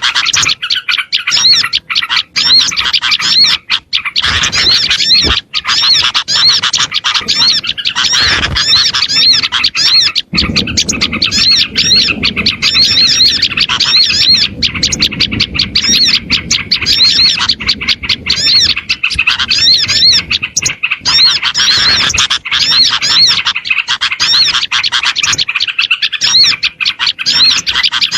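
Bird-lure recording of many small birds chirping and scolding together in a dense, evenly repeating run of high chirps. It is played to draw wild small birds in. A lower background noise joins about a third of the way through.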